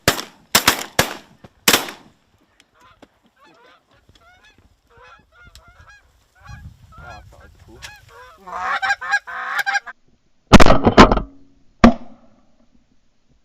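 A quick volley of about five shotgun shots at decoying geese, then a flock of geese honking, growing louder for a moment later on. Near the end come several loud, heavy thumps.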